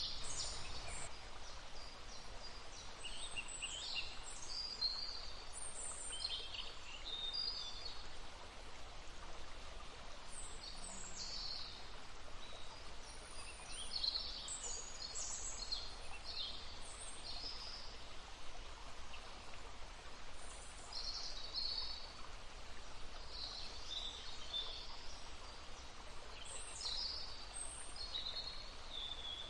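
Several songbirds singing short, high chirping phrases one after another, over the steady rush of a babbling stream.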